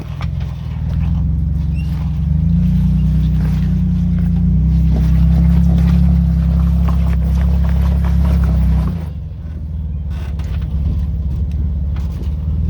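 Off-road Jeep engine running under load with a low rumble. It grows louder about two seconds in and eases off near nine seconds, with scattered knocks over it.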